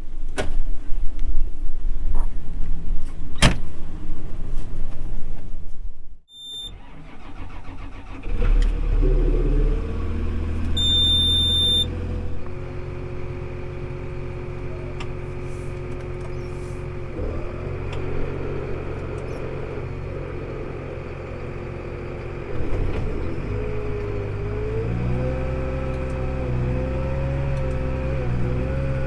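A loud, noisy rush cuts off after about six seconds. Then a tractor engine runs steadily, shifting in pitch a couple of times, with two short high beeps.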